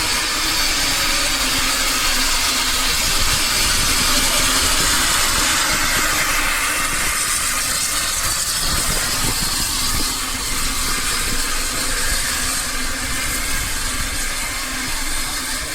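Railway train at a standstill or running slowly, giving a steady, loud hiss over a low engine hum.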